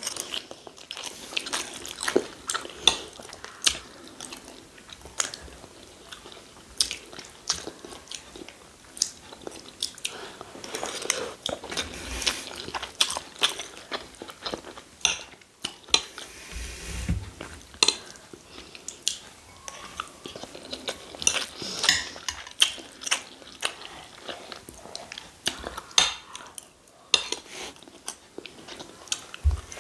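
Mukbang eating sounds of rice and stew: chewing and biting, with many short clicks of spoons against plates throughout.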